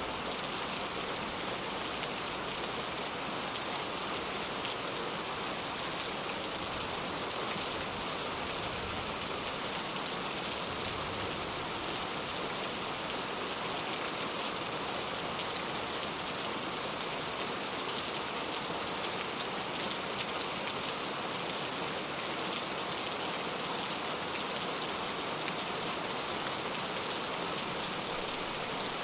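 Steady rainfall: an even, unbroken hiss of many drops, with no change in strength.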